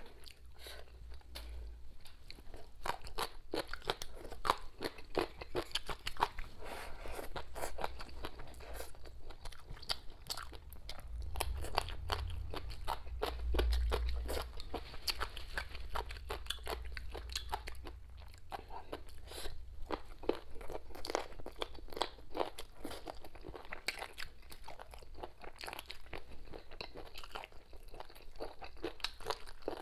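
A person chewing a mouthful of crisp shredded papaya, with dense, irregular crunching all the way through.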